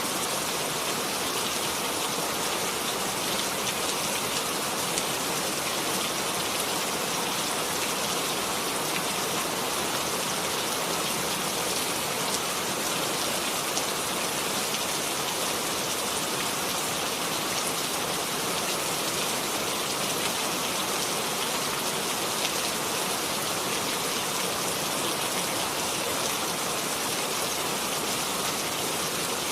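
Steady rain falling, an even hiss of many drops hitting a surface with scattered individual drop ticks.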